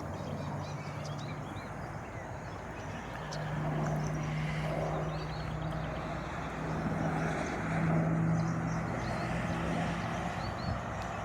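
Steady distant engine drone, swelling twice, with small birds chirping faintly.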